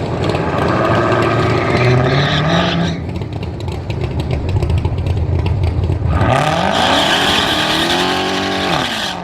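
A car engine revving. It rises briefly about two seconds in. About six seconds in comes a hard rev that climbs quickly and holds high with a loud rushing noise over it, then falls away just before the end.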